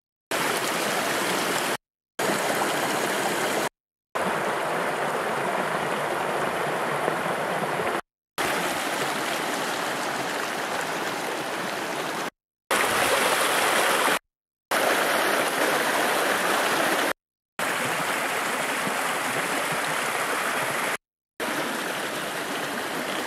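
A small woodland stream flowing with a steady rushing sound, heard in a string of short clips broken by brief silent cuts.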